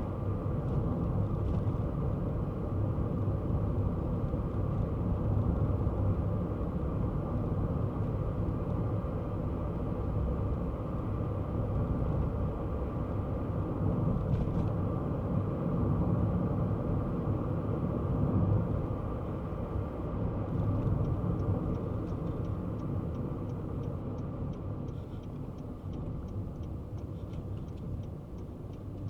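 Kei car on the move: steady engine and road rumble that eases off over the last several seconds. Faint, regular ticking about twice a second runs through the latter part.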